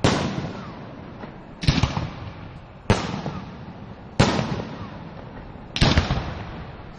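Aerial fireworks going off: five sharp bangs about a second and a half apart, each fading away over about a second.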